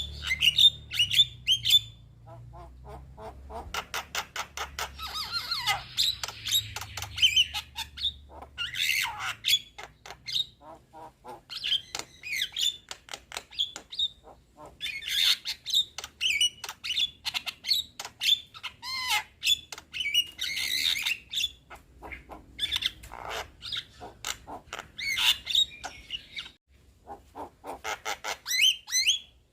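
Young Javan myna chattering and squawking: rapid runs of harsh, clicking and rasping notes in phrases separated by short pauses.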